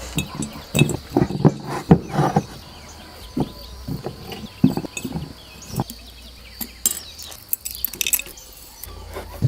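Irregular clinks and knocks of a glass jar and kitchen utensils being handled during food preparation, thickest in the first couple of seconds.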